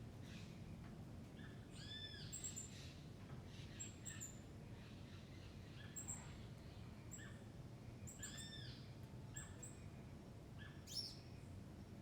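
Faint bird calls: a rising-and-falling arched call repeated about every six seconds, with short high chirps in between, over a low steady hum.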